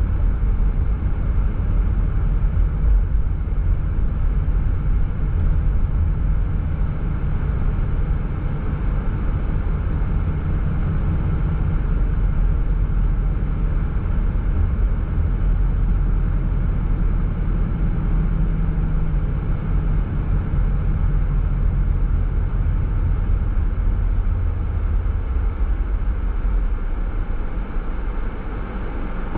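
A car driving at a steady speed: an even, low road rumble of tyres and engine with no change in pace.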